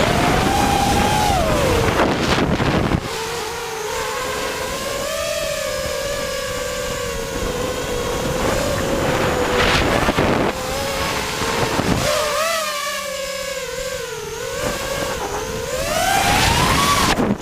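A small, high-revving engine running, its pitch rising and falling as the throttle changes, with heavy wind buffeting the microphone in gusts.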